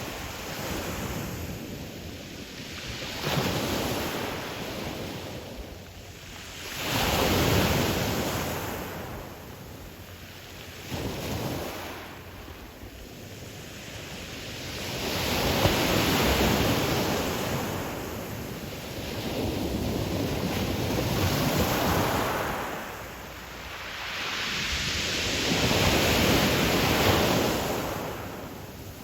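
Ocean surf breaking on a pebble beach, each wave swelling to a hiss and wash and then drawing back, in about six slow surges several seconds apart.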